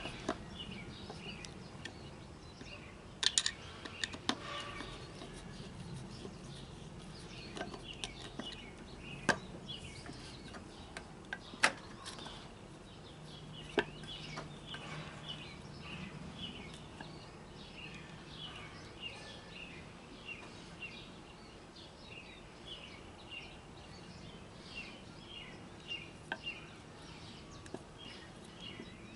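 Faint birds chirping, short repeated calls that come thick and fast in the second half, with a few sharp clicks in the first half.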